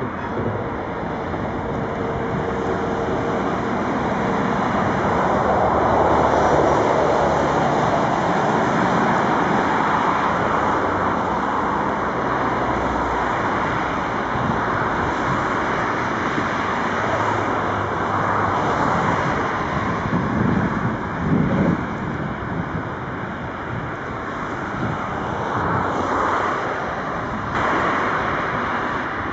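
MaK 6400-class diesel-electric shunting locomotive running steadily, working a wagon. Its engine noise swells a little about six seconds in.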